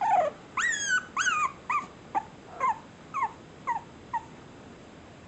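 A dog whining in a series of about nine high yelps, each falling in pitch. The first few are longer and louder, and the later ones get shorter and fainter.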